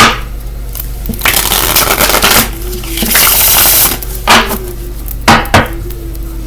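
A deck of tarot cards being shuffled: two rustling stretches of about a second each, then a few sharp taps as the cards are knocked or set down.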